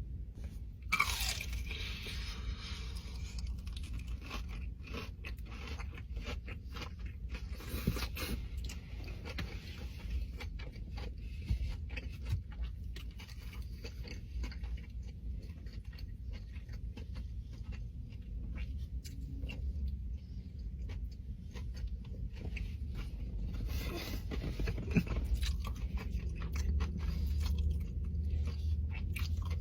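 Close-up chewing and crunching of food, with irregular crisp bites and scraping sounds throughout and a few sharper crunches.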